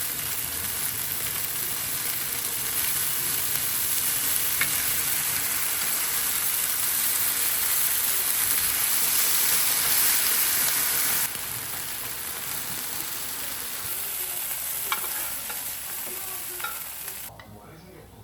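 Food sizzling as it fries in a hot pan, with a few light clicks. The sizzle drops a step about two-thirds of the way through and cuts off near the end.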